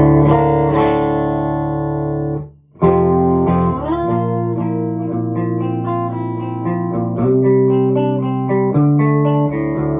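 Clean electric guitar (ESP H-201, tuned to D) through a Randall Diavlo RD20 tube amp's clean sound, no distortion: a chord rings for a couple of seconds and is cut off, then a run of chords follows, changing every second or two.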